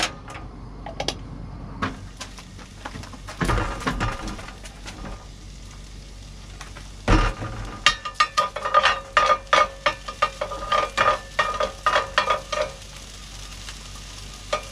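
Ginger and garlic sizzling in a frying pan while a utensil is stirred against the pan. There are a couple of heavy knocks, then from about eight seconds in a run of quick, ringing taps that lasts several seconds.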